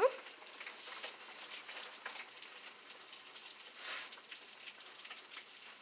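Rain falling steadily, an even hiss with scattered drips and taps. A short rising squeak at the very start.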